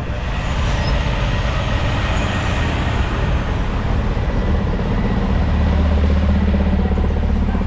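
A race pickup truck's engine running steadily, with a low engine note that grows stronger about five seconds in.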